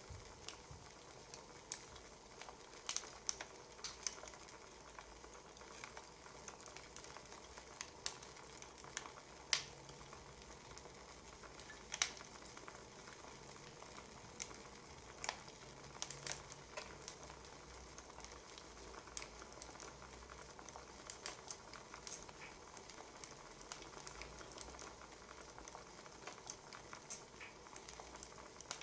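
Wood fire crackling: a low steady hiss with irregular sharp pops and snaps, a few of them louder than the rest.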